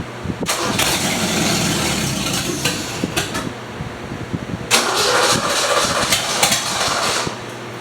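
Mustang engine with open headers, no exhaust pipes, being started for the first time: it catches about half a second in and runs loud for about three seconds, sags, then picks up again for another two and a half seconds before dropping off. The uneven running is what the owner puts down to the carburetor not getting fuel pressure at the angle the car sits.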